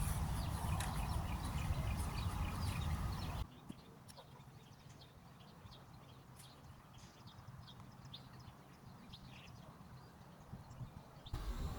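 Outdoor background with a heavy low rumble of wind on the microphone and scattered short high chirps. About three seconds in the rumble cuts off suddenly, leaving a much quieter background where the chirps carry on, and the rumble returns just before the end.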